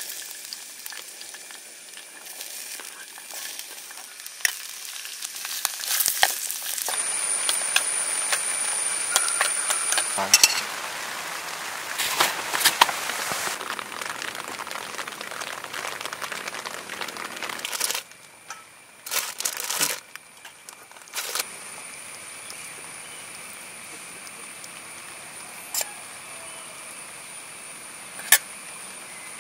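Onion, tomato and chilli mix sizzling and crackling in a small steel saucepan on a portable camping stove, loudest through the middle, with scattered clicks and knocks of utensils. A faint steady high tone runs under the quieter stretches.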